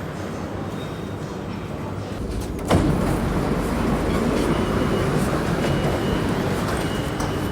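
Cabin noise of a moving public transport vehicle: a steady low rumble, with a sharp clunk a little under three seconds in, after which the running noise grows louder.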